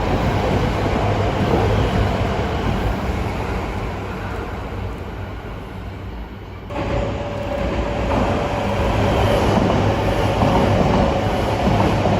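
Yamagata Shinkansen E3 series Tsubasa train running, a loud continuous rumble. It eases off a little towards the middle, then comes back abruptly about two-thirds of the way through with a steady hum over it.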